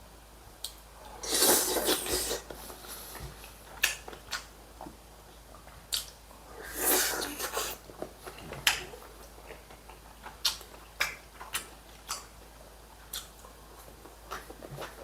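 Eating at the table: chewing with scattered sharp clicks of utensils against dishes, and two longer, noisier stretches about a second in and about seven seconds in.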